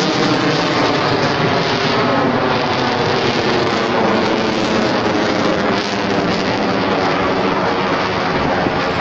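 Loud, steady jet engine noise from a JF-17 Thunder's single turbofan as the fighter flies its display.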